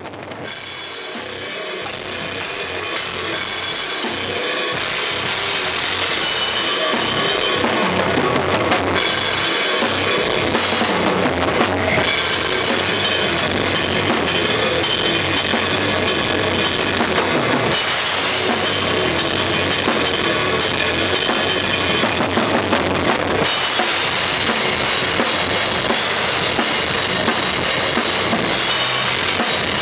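Metal drumming on a Tama Starclassic kit with Paiste cymbals: fast, continuous bass drum and snare under constant cymbal wash. The sound fades up over the first few seconds.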